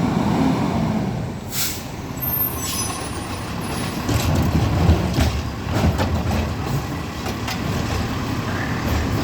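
Rapid Rail automated side-loader garbage truck running at the curb, with a short hiss of air about a second and a half in and a series of clanks and knocks as it works.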